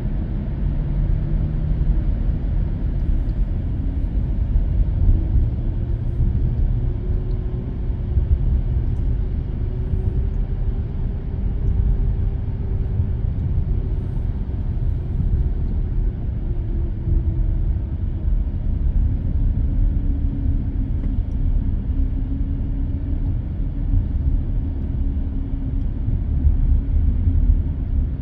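Car driving at speed on an expressway, heard from inside the cabin: steady low road and tyre rumble with engine noise, and a faint hum that slowly rises and falls in pitch.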